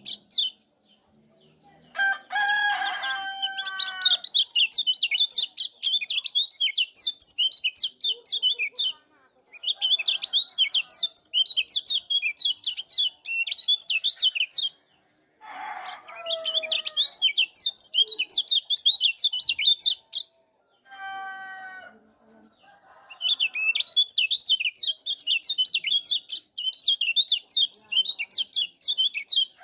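Kecial kuning white-eye giving long runs of rapid, high ciak chirps in four bursts with short pauses between them. A rooster crows three times behind it, near the start, about halfway and about two-thirds through.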